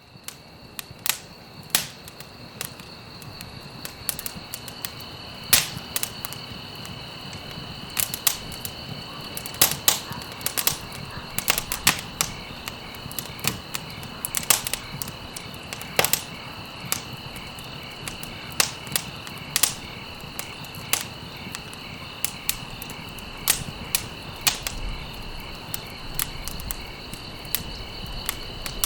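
Campfire crackling, with irregular sharp pops from burning stalks, fading in over the first couple of seconds. A steady high-pitched trill runs behind it.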